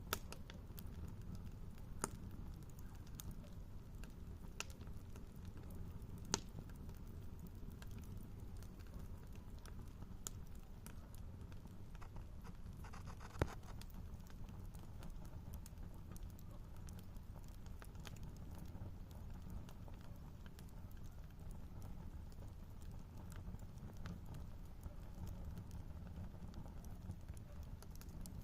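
Bonfire burning with a steady low rumble and scattered sharp crackles and pops, the loudest pop about halfway through.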